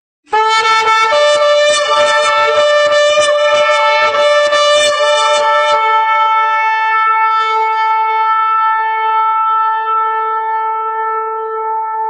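A shofar sounding one long loud blast that starts abruptly and is held on a steady pitch. It is rough and rapidly pulsing for the first five seconds or so, then smooths out, with a second, higher tone sounding alongside from about a second in until past the middle.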